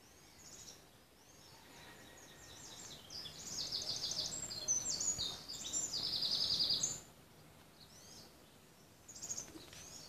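A songbird singing a long, fast run of high-pitched trilled phrases from about two to seven seconds in, with short single chirps scattered before and after.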